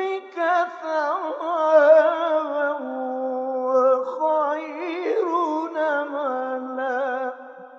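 A man's solo voice in Egyptian-style Quran recitation, drawing out long held, richly ornamented melismatic notes with a wavering vibrato, and fading away near the end.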